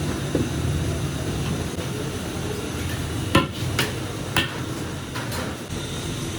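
Metal cooking utensil clanking against a large cooking pot, four sharp knocks between about three and five and a half seconds in, the first the loudest, over a steady low rumble.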